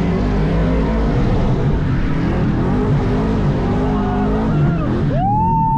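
Truck engine running, its pitch wavering as it is revved. About five seconds in, a tire squeal starts, rising quickly and then holding steady.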